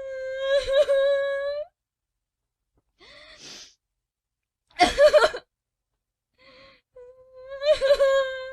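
Woman crying and sobbing: a long drawn-out wail on one held pitch, then a breathy inhale, a sharp gasping sob about five seconds in, and a second long wail near the end.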